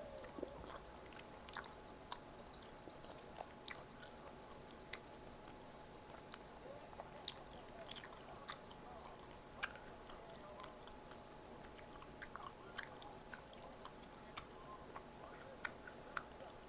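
Close-miked chewing and biting of Korean snack food, with sharp crunchy clicks scattered irregularly throughout as crisp fried pieces are bitten and chewed.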